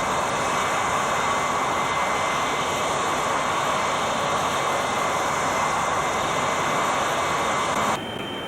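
Jet airliner engines running steadily, a loud rushing noise with a thin steady whine. Near the end it cuts off suddenly to a quieter hiss.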